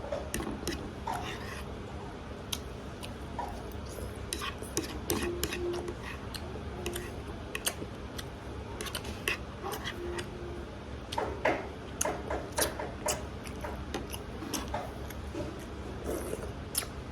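Eating close to the microphone: spaghetti being chewed and slurped, with many small irregular clicks of mouth and cutlery. Faint voices come in briefly around the middle.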